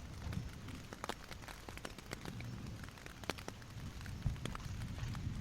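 Heavy rain falling, with many irregular drops ticking sharply on a nearby surface over a steady low rushing noise.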